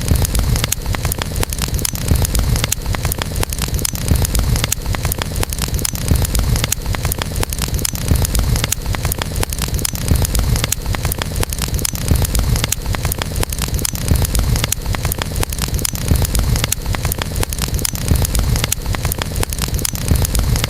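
Wood campfire burning: a steady low rumble under frequent sharp crackles and pops from the burning wood.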